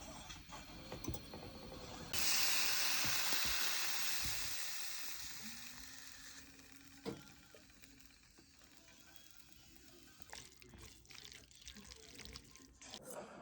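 Kitchen sounds: a sudden loud hiss about two seconds in that fades away over the next few seconds, followed by a few light knocks and clicks.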